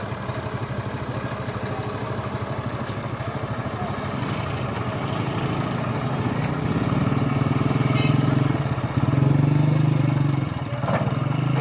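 Ford 3610 tractor's three-cylinder diesel engine labouring as it pulls a heavily loaded sugarcane trolley, with a steady, even chug. It grows louder about halfway through and pushes harder again near the end.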